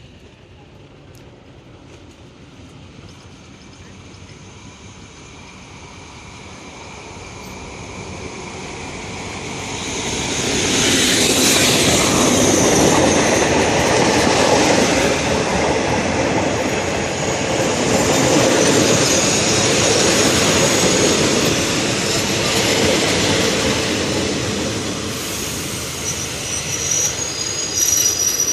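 A passenger train approaching and running past on the rails, its rumble growing over the first ten seconds and then staying loud. Thin high wheel squeal sets in near the end.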